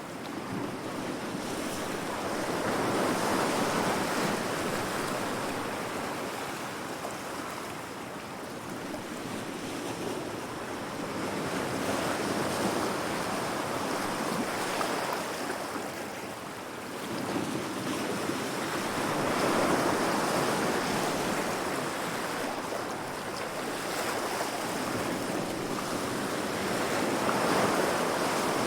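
Heavy ocean waves breaking against rocks: a continuous wash of surf that swells and fades in slow surges about every eight seconds.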